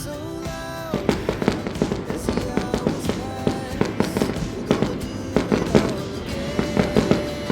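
Fireworks going off in a dense run of sharp cracks and pops, many a second, with music playing alongside.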